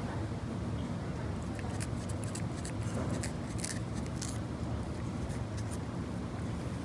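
A cat licking lickable meat-paste treat from its plastic squeeze tube, making a run of quick wet clicks and rustles, most of them in the middle of the stretch. A steady low background rumble underlies it.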